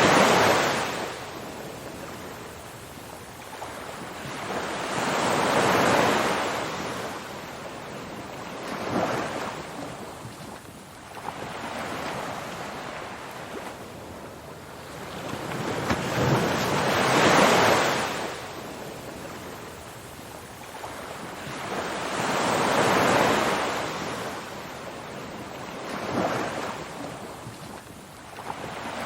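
Ocean surf: waves washing in one after another, each a swell of rushing noise that rises and fades every few seconds, some surges bigger than others.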